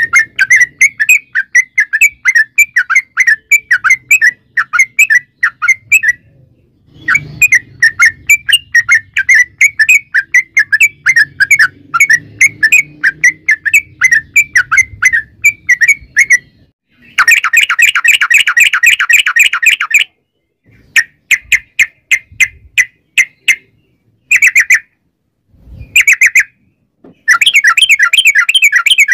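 Trucukan (yellow-vented bulbul) singing its long rapid song: runs of short, bright chirping notes repeated several times a second. The runs are broken by brief pauses, with a denser burst about halfway through and shorter bursts after it.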